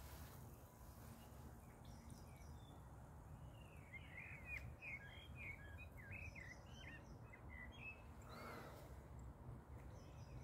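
Faint bird song, a quick run of chirping notes from about four to eight seconds in, over a low, steady background rumble.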